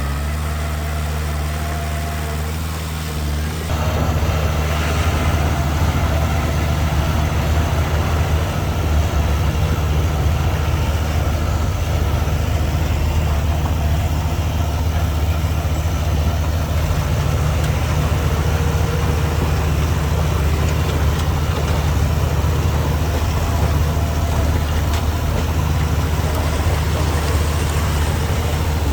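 Diesel engine of heavy earthmoving machinery running steadily at a low pitch. It gets louder about four seconds in and stays at that level.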